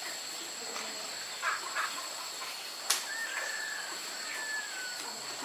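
Outdoor ambience with a bird giving two short, slightly falling whistles around the middle, over a steady high-pitched hum, with one sharp click about three seconds in.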